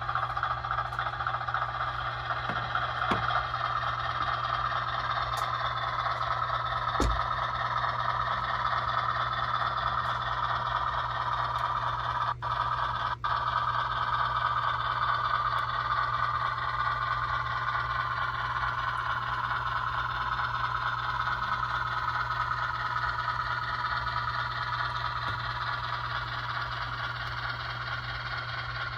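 Sound-equipped HO scale 44-tonner diesel switcher model running, its onboard speaker giving a steady diesel engine drone over a constant low hum, with a few light clicks. The sound cuts out briefly twice, about twelve and thirteen seconds in.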